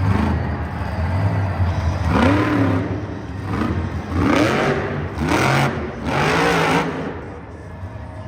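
Monster truck's supercharged V8 engine revving hard, with about four revs whose pitch climbs and falls back, starting about two seconds in, over a steady engine drone.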